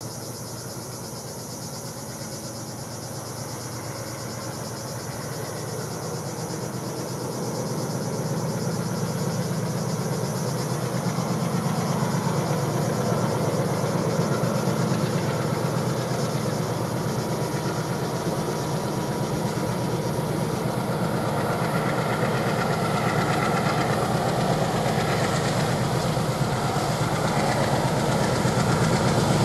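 Approaching container train: the low, steady engine rumble of its locomotives, growing steadily louder as it nears.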